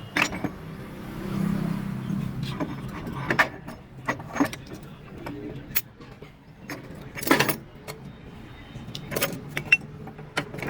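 Irregular metallic clinks and knocks of steel gear parts and tools being handled as a gear assembly is taken out of a tractor gearbox, over a low steady hum.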